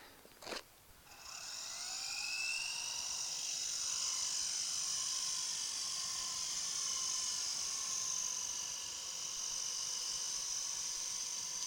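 Radio-controlled model helicopter's motor and rotor spinning up about a second in. The whine rises in pitch, then holds steady and high.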